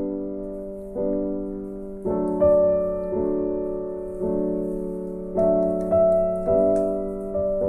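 Background piano music: slow, gentle chords and notes struck about once a second, each fading away.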